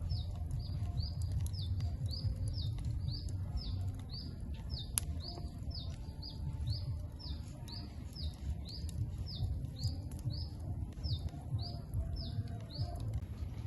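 A small bird chirping over and over, short falling high notes about two a second, stopping shortly before the end, over a steady low rumble.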